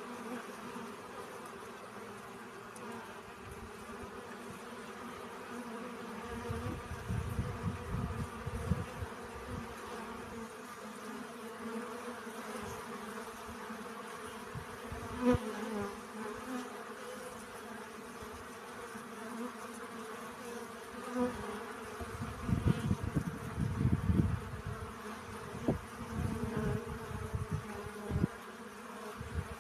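Bees buzzing in a steady hum while gathering pollen, with bouts of low rumble now and then and a single sharp click about halfway through.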